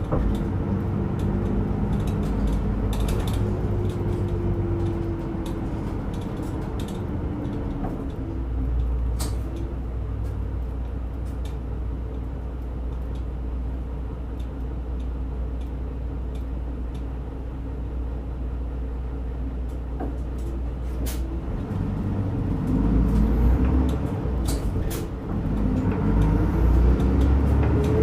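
A route bus's diesel engine heard from inside the cabin. The engine note falls away over the first several seconds and settles into a low, steady rumble. About three-quarters of the way through it rises and gets louder as the bus accelerates again. Scattered clicks and rattles from the bus body run throughout.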